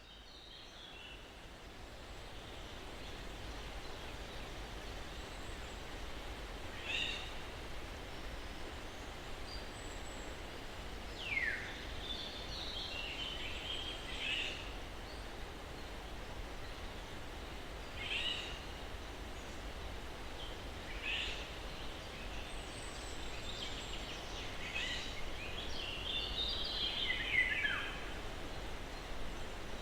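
Steady breeze noise that fades in over the first few seconds, with scattered bird calls on top: short downward-sweeping chirps and brief twittering, a few seconds apart.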